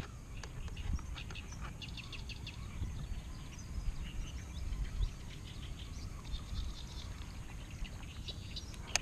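Birds chirping and calling in quick, repeated short notes over a steady low rumble.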